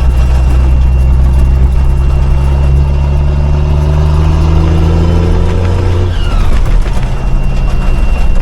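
5-ton military truck's engine pulling under load, its pitch rising slowly for about six seconds, then dropping suddenly and running on lower.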